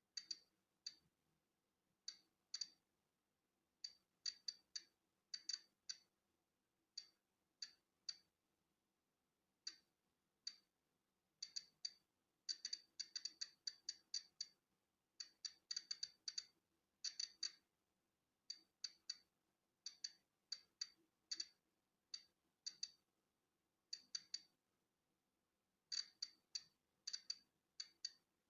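Polon EKO-C digital Geiger counter clicking at irregular, random intervals, sometimes several in quick succession, as it counts natural background radiation. Each click is a short, sharp, high tick, and there are a few per second on average.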